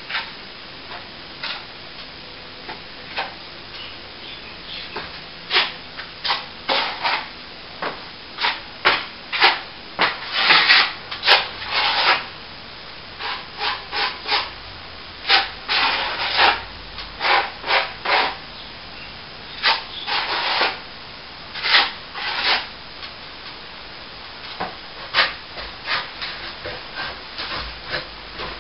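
A hand tool scraping and rubbing on a plaster wall in many short, irregular strokes, some in quick bursts of several strokes.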